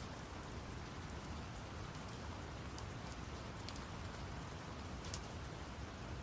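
Steady rain-sound ambience laid over brown noise: an even low rumble with scattered drop ticks on top.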